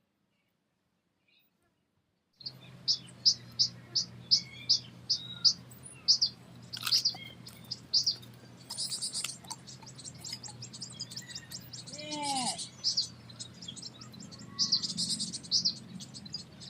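Small birds chirping: after a silent opening, a run of short, high chirps about three a second begins, broken by a few bursts of quicker twittering. A steady low hum runs underneath.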